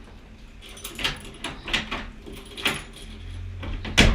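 A few sharp rattling clatters, then a loud knock near the end, like something being handled or a door or window being worked.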